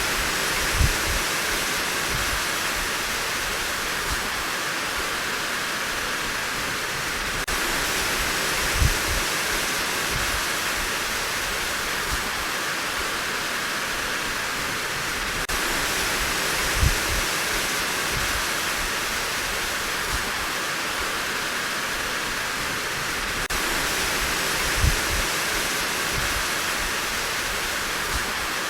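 Steady heavy rain, an even rushing hiss. A short low thump comes about every eight seconds, four times.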